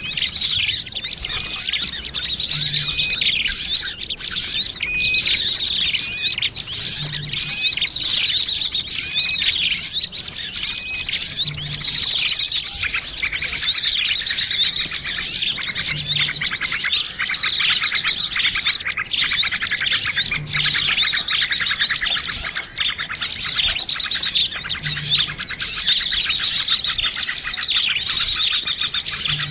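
Bird-lure recording of many small birds chirping and twittering at once in a dense, unbroken chorus of high, rapid calls and trills. A faint low pulse recurs about every four and a half seconds beneath it.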